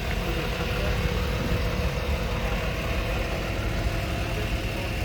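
An engine idling steadily, a constant low hum with a faint steady tone above it.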